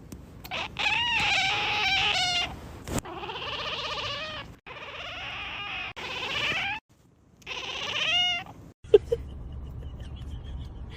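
Cat yowling in several long, wavering calls with short breaks between them. A low steady hum takes over for the last couple of seconds.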